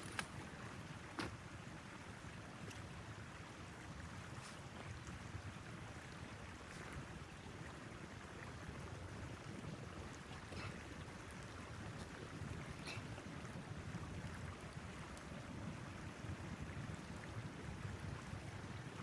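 Steady rushing wind noise from a snowstorm, with a few sharp clicks scattered through, the loudest about a second in.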